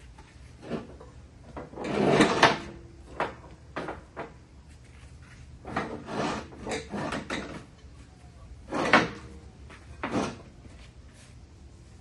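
Irregular clunks, clinks and rattles of hand tools and metal mower-deck parts being handled, coming in bunches with short pauses; the loudest clatter is about two seconds in, with another sharp knock near the end.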